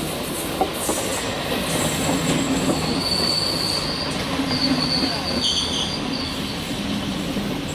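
Electric multiple unit local train running on the rails, with a steady rumble and a high-pitched wheel squeal twice in the middle, about three and four and a half seconds in.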